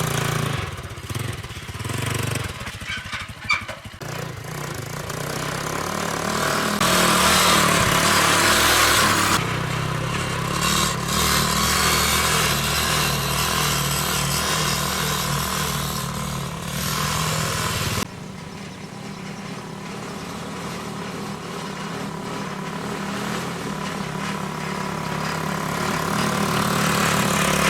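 Diesel engine running under load, its pitch and level rising and shifting over the first several seconds, then dropping suddenly about eighteen seconds in and building up again.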